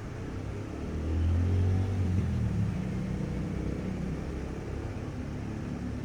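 A low, steady motor-like rumble and hum that swells about a second in, then settles back.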